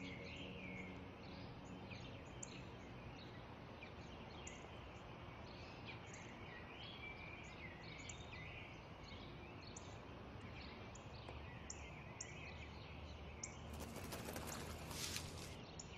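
Small birds chirping and twittering over a faint, steady outdoor background. About two seconds before the end there is a brief rustling burst.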